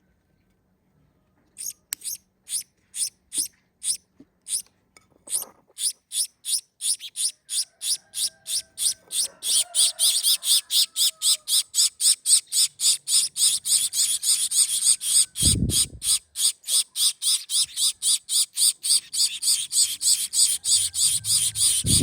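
Gouldian finch nestlings begging while being hand-fed: a run of short raspy calls that starts slowly about two seconds in, then speeds up to about three a second and grows louder. Two dull low thumps, one near the middle and one at the end.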